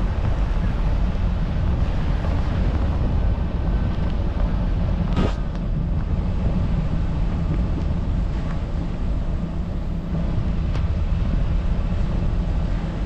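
A car driving: steady low rumble of engine and tyres on the road. There is a single sharp knock about five seconds in.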